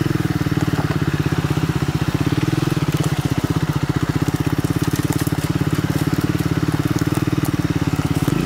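A Triumph Scrambler 400X's single-cylinder engine runs steadily at low revs with an even, rapid pulse. A few light crackles sit over it.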